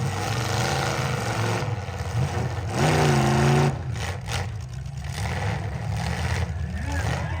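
Demolition derby car engines running and revving, with one loud rev about three seconds in.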